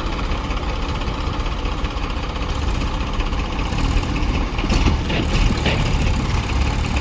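Tractor engine running steadily at a low, even speed, with a few sharper knocks past the middle.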